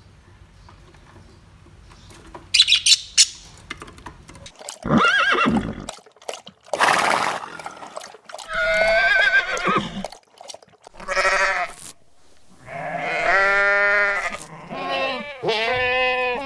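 Farm animals calling: a string of separate pitched calls, the longest and loudest about thirteen seconds in, with a few sharp clicks near the start.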